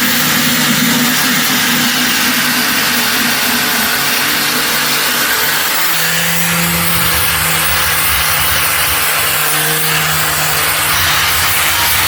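Electric power tool running steadily with a continuous hiss of abrasion on metal; its motor tone drops about halfway through as it takes more load.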